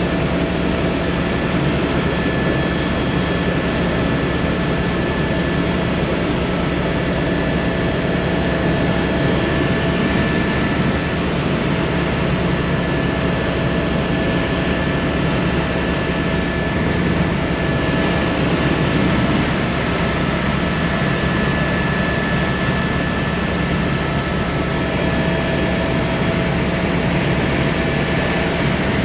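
Helicopter in flight, heard inside the cabin: a steady engine and rotor drone with a thin, constant whine over it.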